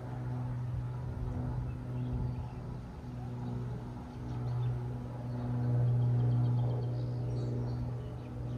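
Steady low engine hum that swells louder a little past the middle, with faint high chirps near the end.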